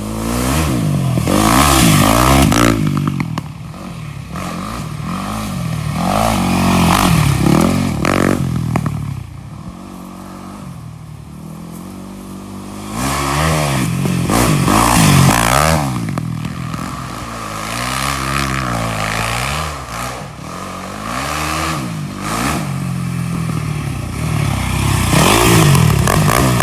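Off-road vehicle engine revving hard, its pitch rising and falling again and again with throttle and gear changes, easing off for a few seconds near the middle.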